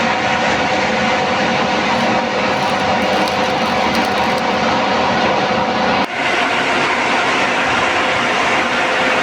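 Steady, loud metalworking noise from work on a steel belt frame, with a constant hum running through it and a short break about six seconds in.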